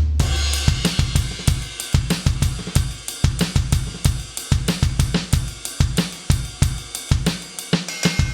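KAT Percussion KT4 electronic drum kit playing a preset drum kit sound: a low booming note rings out at the start, then a steady groove of kick drum, snare and hi-hat/cymbal hits begins just under a second in.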